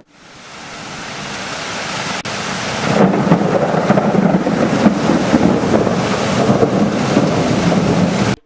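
Thunderstorm: rain hiss fades in and builds, then about three seconds in a long, loud thunder rumble sets in over the rain. It cuts off abruptly near the end.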